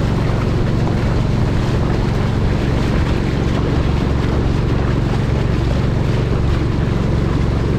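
Long-tail boat engine running steadily underway, a constant low drone with wind noise on the microphone.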